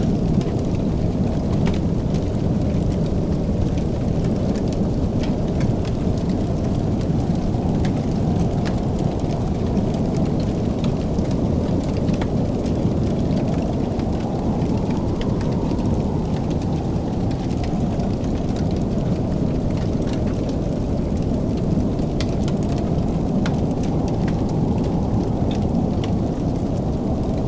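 Fire crackling in a fireplace: scattered sharp pops and snaps over a steady low rumble.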